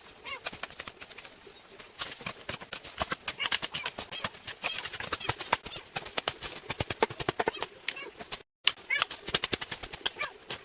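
Rapid, irregular knocking and clicking of hand-tool work on wood, with birds chirping and a steady high insect-like hiss behind it. The sound cuts out completely for a moment near the end.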